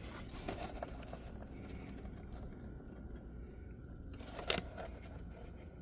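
Faint handling and rustling noises over a low hum, with one short sharp click about four and a half seconds in.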